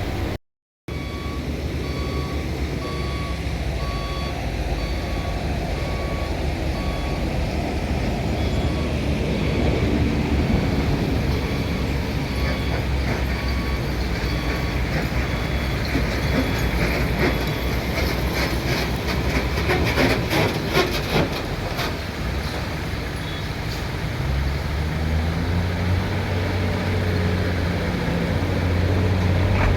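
A vehicle's reversing alarm beeping at an even pace, about twice a second, over a running engine; the beeping stops about halfway, and a low engine hum grows louder near the end.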